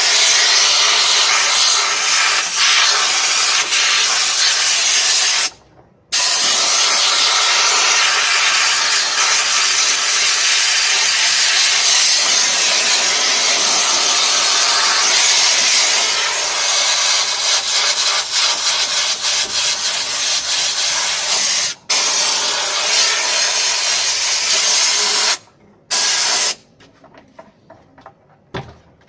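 A loud, steady hiss of a high-pressure spray jet. It is cut off briefly three times, as if a trigger is released, and stops for good shortly before the end.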